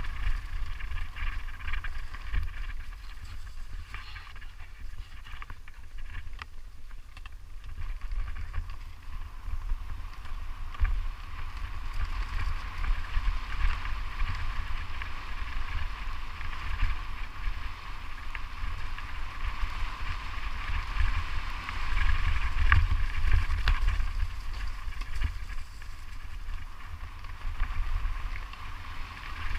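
Wind buffeting the microphone during a fast downhill descent. A low rumble runs under a steady rushing noise that swells a little about two-thirds of the way through.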